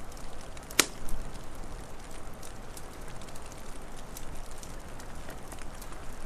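Wood fire crackling, with scattered small snaps and one loud sharp pop about a second in, over a steady low hiss.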